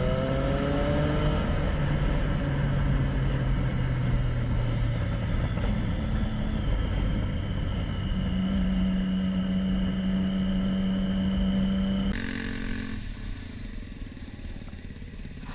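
Motorcycle engine running while riding, its pitch rising in the first second or two as it accelerates, then holding steady. About twelve seconds in, the sound cuts abruptly to a quieter scene.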